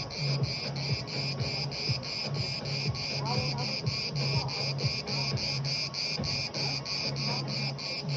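Cicada calling in a steady pulsing rhythm of about four buzzy pulses a second, over a low hum.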